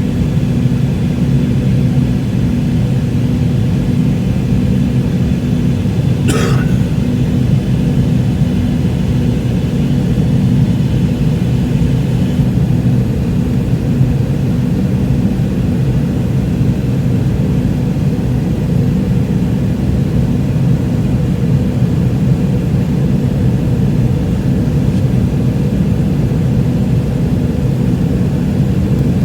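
Steady, loud cabin rumble of an MD-88 airliner, its rear-mounted JT8D turbofan engines running, with a few constant low hum tones. A brief sharp sound cuts through about six seconds in.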